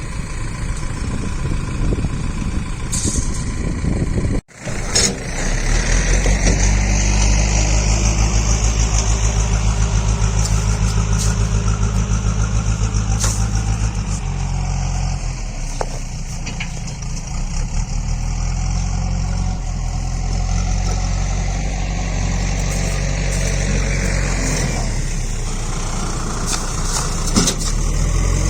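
An engine running steadily with a regular pulsing beat. It breaks off briefly about four seconds in, then runs on, and its note changes a little about halfway through.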